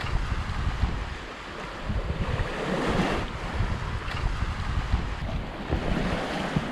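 Wind buffeting the microphone over the rush of water along a sailboat's hull while it is underway, swelling briefly about three seconds in.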